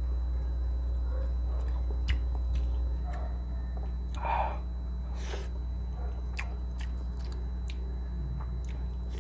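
Close-miked chewing of soft milkfish and rice: scattered small wet clicks and smacks of the mouth, over a steady low hum.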